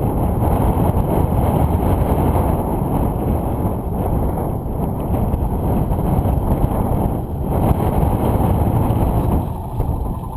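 Dirt bike being ridden on a trail: engine running under a loud, rough rush of wind on the microphone.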